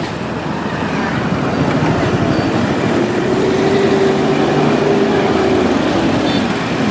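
Motorcycle engine running under way with rushing wind noise. The engine note rises about two seconds in, holds, then drops again near the end as the rider eases off.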